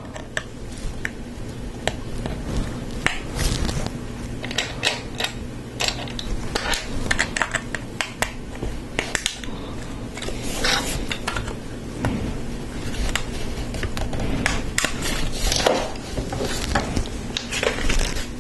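Plastic Lego Technic parts clicking and clattering as they are handled, sorted and pressed together: an irregular run of small clicks throughout.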